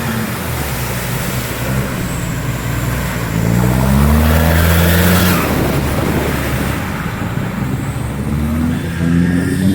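Off-road 4x4's engine revving under hard acceleration. It rises in pitch about three seconds in, runs loudest for a couple of seconds, eases off, and revs up again near the end.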